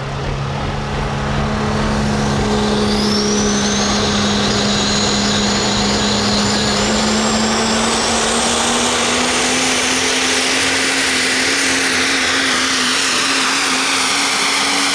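A super modified four-wheel-drive pulling truck's engine running hard and steady at full throttle down the track. A high whine climbs in pitch over the first few seconds and then holds, while the engine note edges slowly upward.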